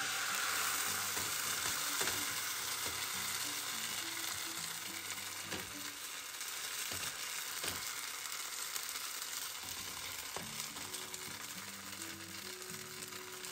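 Tofu, rice-flour and potato-starch batter sizzling in hot oil in a frying pan over medium heat. The hiss is loudest as the batter first goes in and eases off gradually, with a few faint taps.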